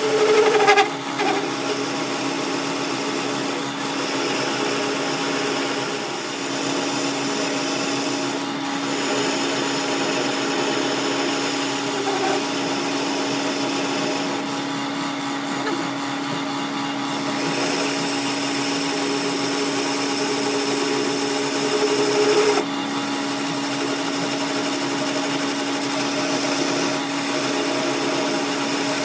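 Power tool running steadily on metal workpiece, with a steady hum and a high whine. It briefly gets louder about a second in and again about 22 seconds in.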